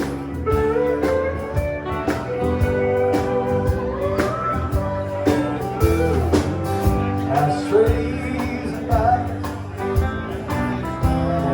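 Live country-rock band playing an instrumental break: a lead guitar plays bending, sliding melody notes over bass and regular drum hits.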